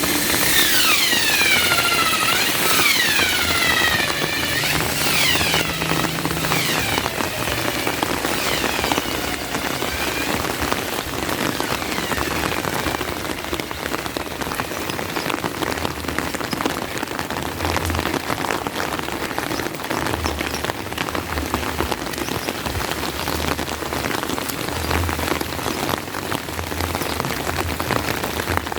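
Steady rain falling on surfaces. Over the first several seconds a passing motor vehicle's engine falls in pitch and fades away.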